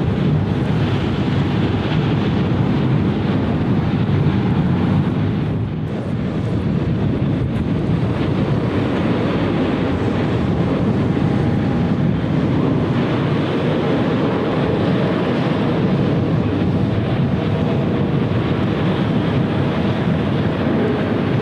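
Steady roar of jet airliner engines, with a brief dip about six seconds in.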